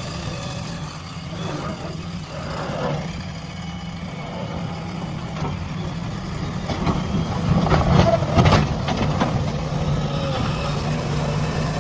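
Heavy diesel engine of a backhoe loader running steadily, with a cluster of sharp knocks and clatter about eight seconds in as the sound grows louder.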